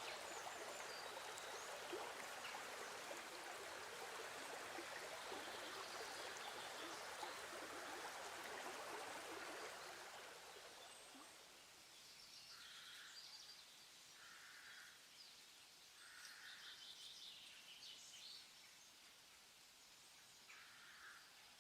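Faint ambient background: a steady rushing hiss like running water that fades out about ten seconds in, followed by soft short chirps repeating every second or two.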